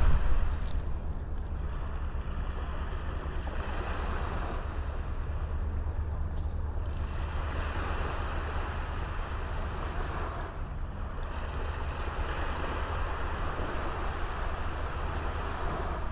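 Small waves washing up on a beach, swelling and easing back every few seconds, with a steady low rumble of wind on the microphone.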